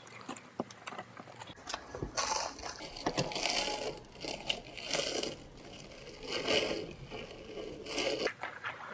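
Dry saltine crackers being crunched and chewed close to the microphone, in uneven crunches. The crunching is faint at first and becomes fuller and louder from about a second and a half in.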